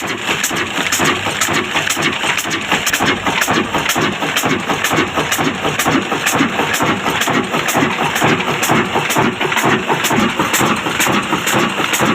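Old diesel engine running steadily with an even, regular beat.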